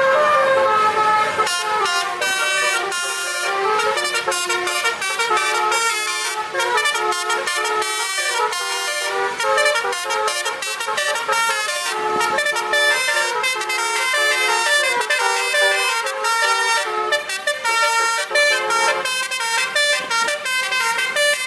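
A truck's basuri musical air horn playing a fast tune: a held chord, then from about a second and a half in, a rapid run of short horn notes.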